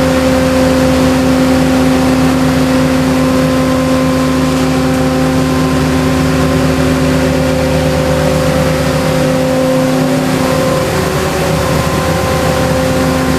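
The machinery of a rail tunnel-cleaning train running steadily, a loud, even hum made of several constant tones over a rushing noise. The low end weakens briefly about ten seconds in and then comes back.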